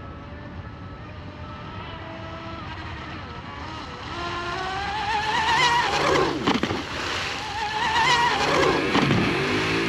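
Electric RC hydroplane boat with a water-cooled brushless motor on 6S power, its high-pitched whine building and then passing by twice, the pitch dropping sharply each time it goes past, over a hiss of spray.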